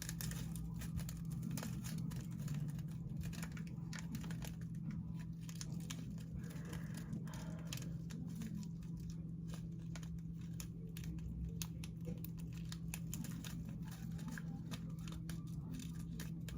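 Faint crinkling and small irregular clicks of hands picking at a slime container and its small plastic pieces, over a steady low hum.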